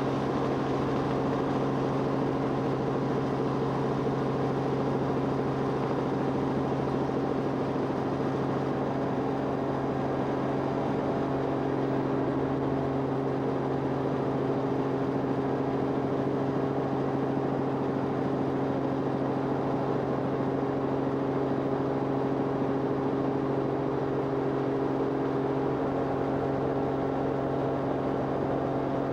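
Steady drone of an aircraft's engine heard from inside the cabin: an even, unchanging hum with a strong low tone and its overtones over a rushing noise.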